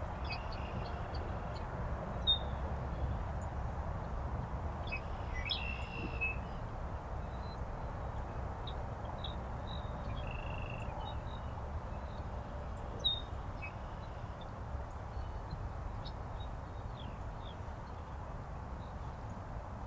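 Songbirds calling: scattered short chirps and brief whistled notes, with a couple of sharper calls, over a steady low outdoor rumble.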